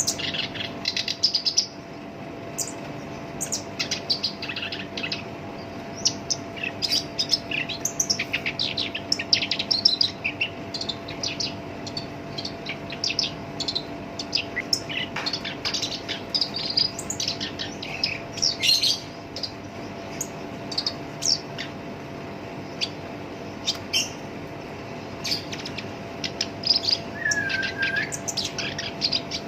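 Black-browed reed warbler singing a continuous, harsh, chattering song of rapid short notes, with a faint steady hum underneath.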